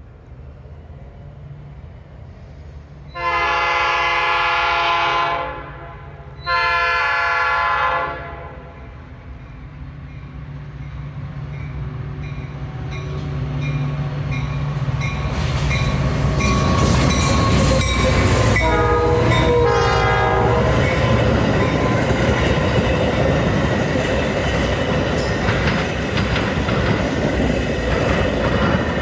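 Metra commuter train sounding its horn twice in long blasts, then approaching and passing close by with a third blast as it goes past, its wheels rumbling and clacking over the rail joints.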